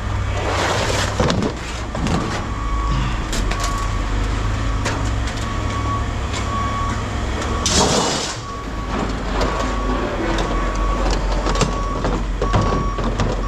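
A heavy vehicle's reversing alarm beeping over and over, over the steady rumble of a diesel engine running, with a short burst of hiss about eight seconds in.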